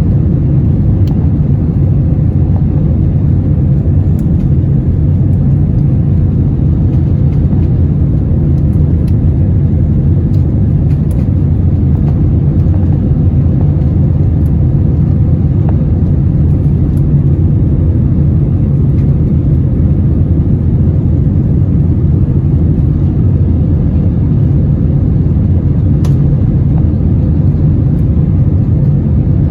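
Steady cabin noise of an Airbus A321-200 in flight: a constant low rumble of airflow and engines heard from inside the passenger cabin.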